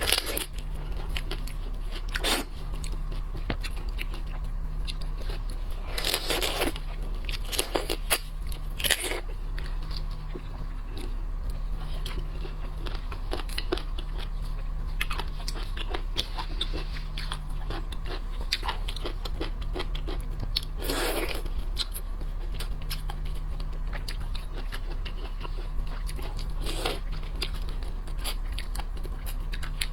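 Close-up eating of shellfish: irregular crunches and cracks of shell, with chewing in between, over a steady low hum.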